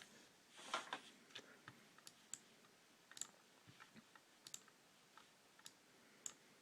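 About a dozen faint, irregular sharp clicks, some with a brief high chirp-like tone, from a computer and its externally mounted solid-state drive.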